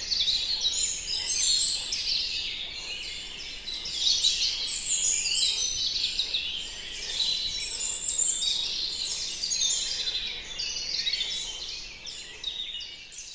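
Dawn chorus of many songbirds singing at once in a forest, a dense unbroken mix of high chirps and trills that fades near the end.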